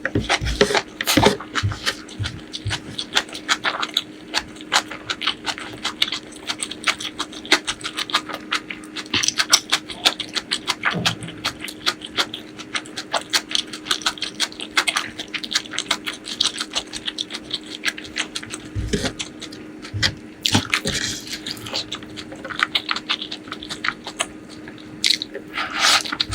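Close-miked eating sounds: wet chewing, lip smacks and mouth clicks in a dense, irregular run, with a faint steady hum underneath.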